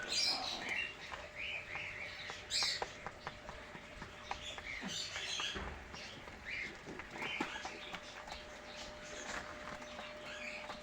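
Pigeon squabs peeping: a scattered run of short, high chirping squeaks, with a few light clicks among them.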